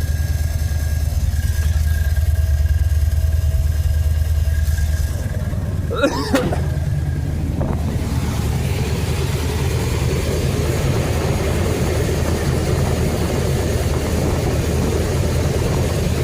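1976 Chevy Bonanza pickup's engine idling steadily during a radiator bleed, with a brief knock about six seconds in.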